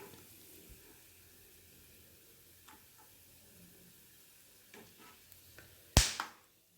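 Groundnuts frying in a pan of hot sunflower oil with a faint, steady sizzle and a few light ticks. About six seconds in comes a single sharp clack, the loudest sound.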